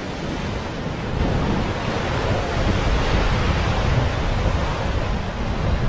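Ocean surf washing and breaking, swelling louder about a second in, with wind buffeting the microphone.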